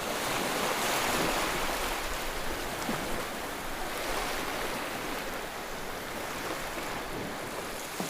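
Steady rushing noise, like wind or surf, swelling slightly about a second in.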